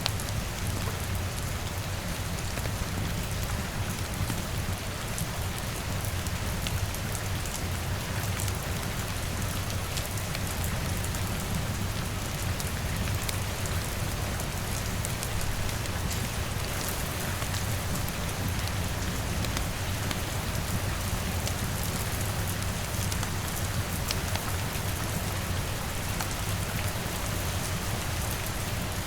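Steady rain, with scattered sharp crackles from a wood fire in a fireplace mixed in.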